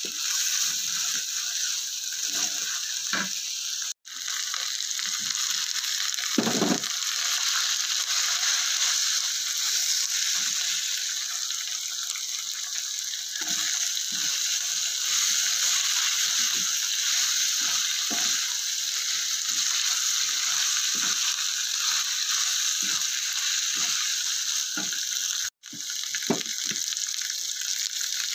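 Chilli paste frying in a wok with a steady sizzle, while a wooden spatula scrapes and knocks against the pan as it is stirred. The sound drops out for an instant twice.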